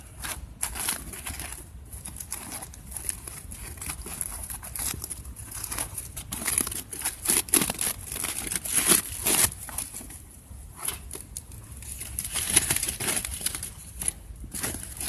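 Knife shaving thin curls down a wooden stick to make a feather stick: irregular scraping strokes, coming faster about halfway through.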